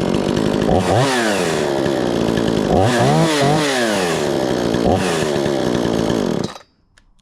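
Gas chainsaw with a 22-inch bar running and being revved up and back down about four times, then shut off abruptly about six and a half seconds in.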